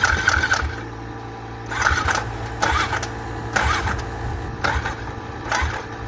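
Yamaha Grizzly 700's single-cylinder engine running on gas poured down the intake, firing rapidly and then dying well under a second in. Short, sharp noisy bursts follow about once a second.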